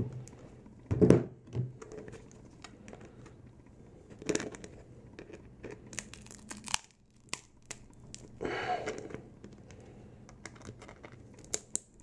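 A 3D-printed nylon 618 part being twisted and pulled with tools: scattered sharp cracks and clicks, and a longer tearing noise a little past the middle as its printed layers begin to separate.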